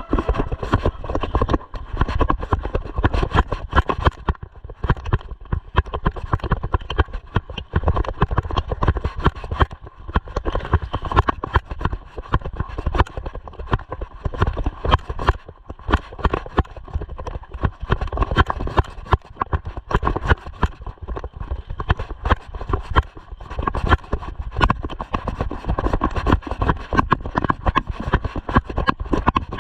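Mountain bike rattling and knocking continuously over a rough dirt trail, with wind rumbling on the microphone.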